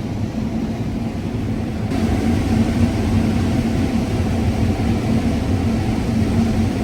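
Combine harvester running steadily while cutting corn: a constant engine and machinery drone that grows a little louder about two seconds in.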